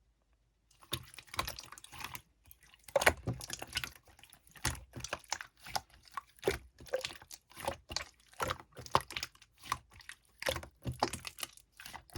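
Clear slime being pressed and squeezed by hand, giving irregular wet clicks and squishes several times a second, starting about a second in.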